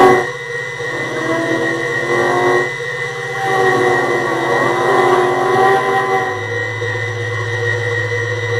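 Experimental electronic noise music from analog synthesizers: a steady high drone and a buzzing low tone under wavering, warbling mid-range tones. A sharp click sounds at the very start, and the low buzz shifts pitch about six seconds in.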